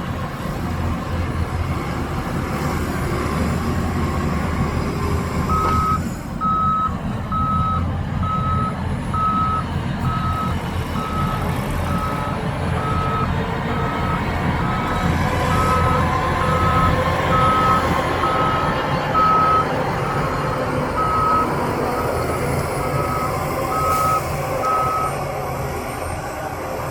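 Heavy diesel machinery running steadily, with a single-tone reversing alarm starting about six seconds in and beeping about once a second until near the end.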